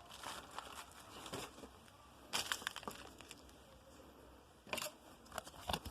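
Mail packaging being handled and opened by hand: irregular crinkling and crackling rustles in short clusters, the loudest a little over two seconds in and again near the end.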